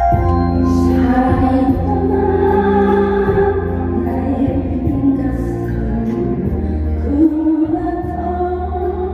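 A woman singing a song over a backing track, with a steady low bass underneath.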